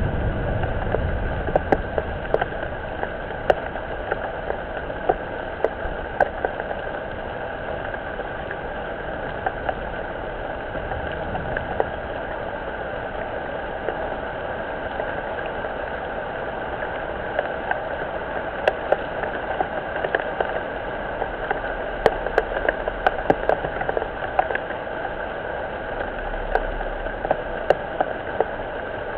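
Steady rain falling, with frequent sharp drop strikes.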